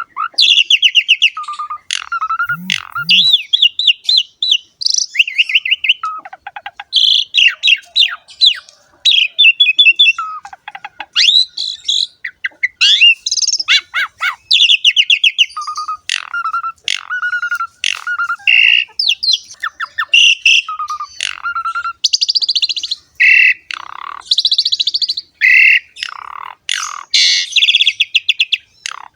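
Pied starling (jalak suren) singing a varied song of rapid chattering trills and short whistled notes, phrase after phrase with brief pauses between them.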